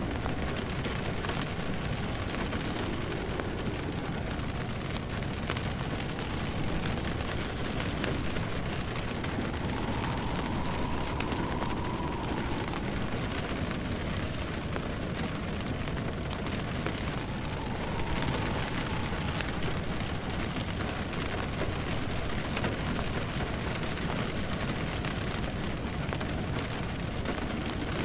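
Steady rain mixed with the crackle of a wood fire in a fireplace, a layered ambience soundscape. A faint whistling tone swells and fades twice.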